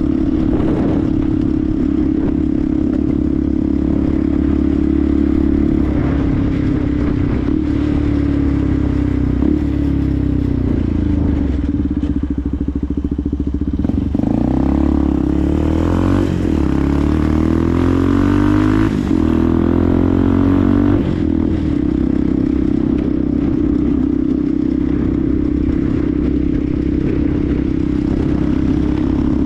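Benelli TNT 125's single-cylinder four-stroke engine running at a steady cruise; about a fifth of the way in its revs drop away for several seconds as the bike slows, then climb again as it accelerates, before settling back to a steady cruise. Wind noise runs underneath.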